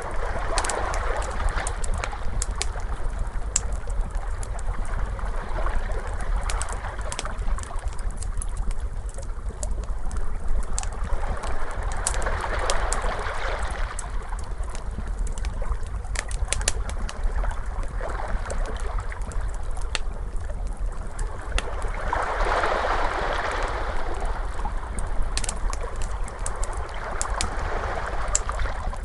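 Ocean waves washing in and out, swelling every five or six seconds, with a wood fire crackling in sharp, scattered pops over a steady low rumble.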